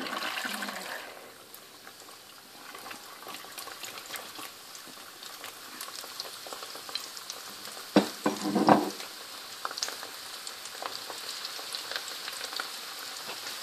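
Chana dal deep-frying in hot oil after being poured into the pan: a steady sizzle with crackling that grows louder toward the end. There are two louder knocks about eight seconds in.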